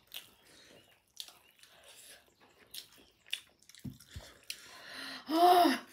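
People chewing a mouthful of rice and buffalo meat: wet mouth clicks and smacks, with a couple of low thumps about four seconds in. Near the end comes a brief loud hum from one of the eaters, rising then falling in pitch.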